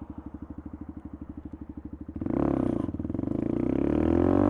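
Motorcycle with an aftermarket exhaust ticking over in a steady throb of about a dozen pulses a second. About two seconds in it gets much louder as the revs climb, with the pitch rising as it pulls away.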